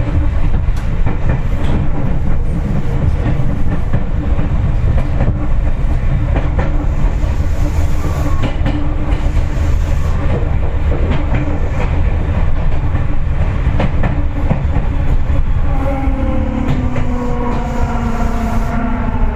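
Seibu 4000 series electric train heard from inside the car while running: a steady low rumble of wheels on rail with scattered rail-joint clicks. About three-quarters of the way through, a whine of several tones sets in and sags slightly in pitch as the train begins slowing for a station.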